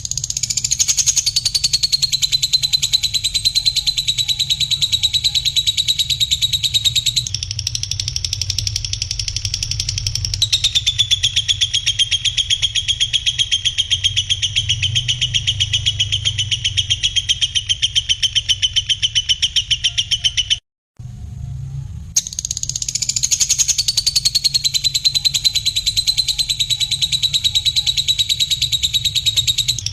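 A songbird's high, rapid buzzing trill, held in long unbroken stretches with a small drop in pitch as each stretch begins. It is a bird-tutoring recording played for caged songbirds. It breaks off for about a second past the middle and then starts the same sequence again, as a loop does, over a low steady hum.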